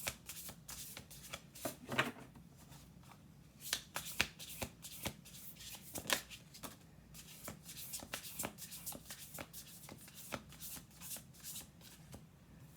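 Deck of oracle cards being shuffled by hand: a steady run of quick, soft card clicks and slaps, a few louder than the rest, stopping just before the end.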